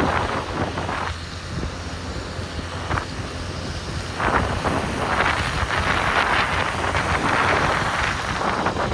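Wind buffeting the microphone of a moving motorbike, over a steady low rumble of the ride, growing louder about four seconds in.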